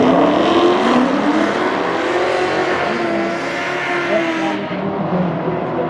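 A car engine running and revving, its pitch slowly rising and falling over a steady rush of noise.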